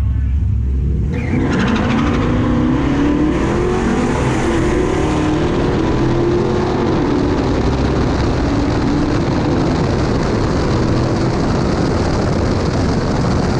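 V8 engines at a low rumble, then about a second in a hard full-throttle launch. The engine note rises and wavers as it pulls hard through the gears, with a loud rush of road and wind noise.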